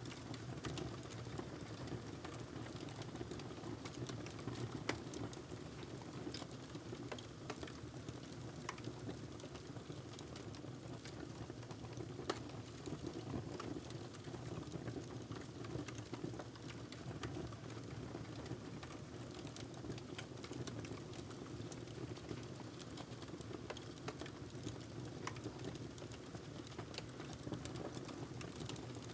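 Fire crackling in a fireplace: a steady low rush of burning with scattered sharp pops and crackles throughout, one louder pop about twelve seconds in.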